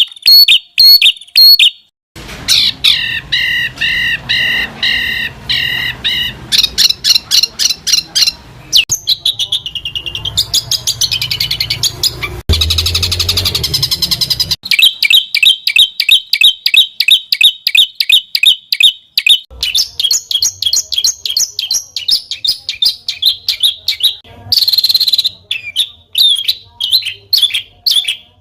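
Songbirds singing in edited, spliced clips: fast series of sharp, repeated high notes and trills, the pattern switching abruptly every few seconds as one recording cuts to the next.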